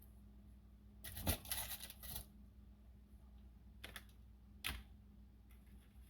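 Handling noises: a short clatter about a second in, then two single sharp knocks, over a faint steady hum.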